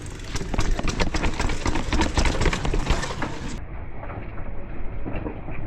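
Mountain bike rattling and clattering over a rough, rocky path: a dense run of knocks and rattles from the frame and parts as it bounces, thinning out after about three and a half seconds, with a steady low rumble of wind on the microphone.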